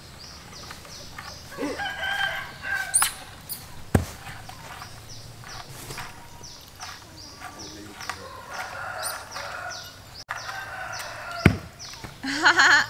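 Roosters crowing several times, the last crow the loudest, over a faint high chirping that repeats a few times a second. Two sharp knocks stand out between the crows.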